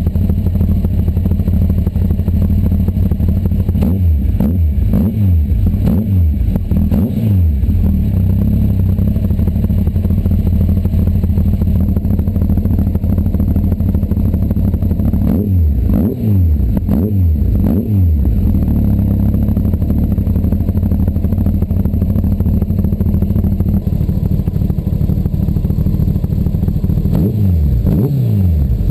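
Honda CBR1100XX inline-four engine idling through its exhaust, blipped in three bursts of quick throttle revs: about a third of the way in, past halfway, and near the end.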